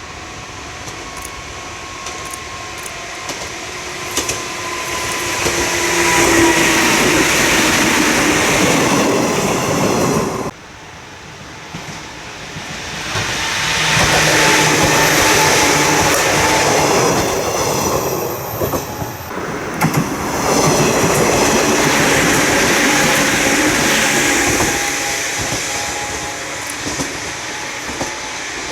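Electric trains passing: wheels running over the rail joints, swelling loud as the train goes by. The first pass cuts off suddenly about ten seconds in, and a few seconds later another train passes, loud for about ten seconds before fading.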